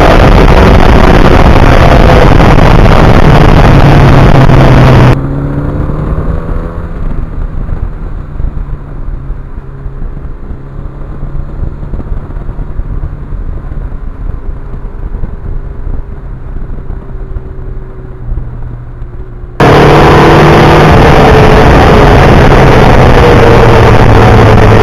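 1982 Suzuki GS1100E's air-cooled inline-four engine running under way, its pitch rising and falling with the throttle. For the first five seconds and the last five it is nearly buried under a loud rush of wind on the microphone. In between, the wind drops away and the engine is heard quieter and clearer.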